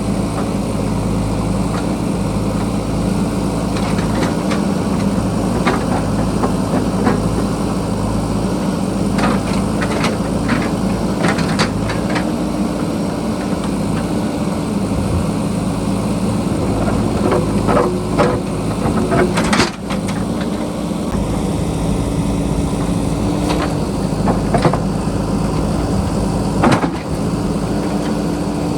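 JCB backhoe loader's diesel engine running steadily, with scattered sharp knocks and clatters as the bucket works against rock and stony ground.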